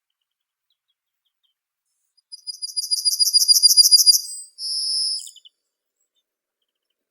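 A songbird singing one phrase: a rapid trill of high notes that grows louder, ending in a held high note, starting about two seconds in.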